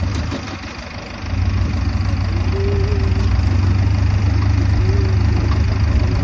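A steady low rumble of a vehicle engine running, growing louder about a second in.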